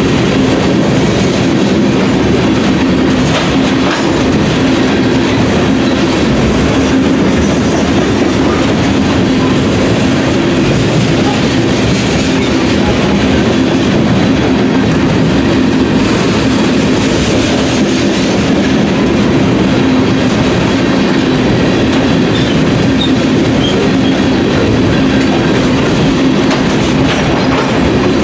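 Long freight train of covered hopper cars rolling past, its steel wheels running loud and steady on the rails.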